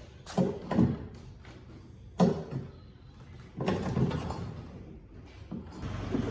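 Several dull knocks and clunks: two close together near the start, one sharper about two seconds in, and a longer rattling cluster around four seconds.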